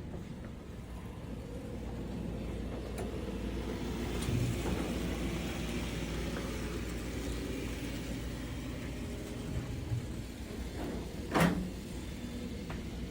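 N scale model trains running on a layout: a steady low hum with a light rolling rattle that swells in the middle and fades, and one sharp knock about eleven seconds in.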